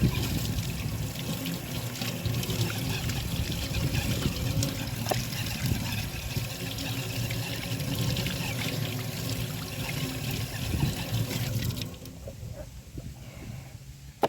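Water running or pouring in a steady stream, which cuts off about twelve seconds in.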